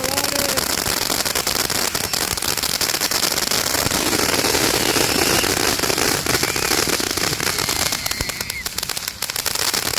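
A long-burning firework crackling rapidly and without a break, a dense stream of small pops like a string of firecrackers.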